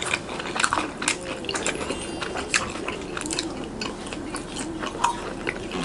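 People chewing fried chicken close to the microphone: a steady run of small, sharp crackles and clicks from biting and chewing.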